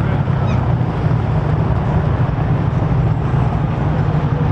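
Steady low engine drone under an even rushing noise, as from a running vehicle or vessel engine, with a faint brief high chirp about half a second in.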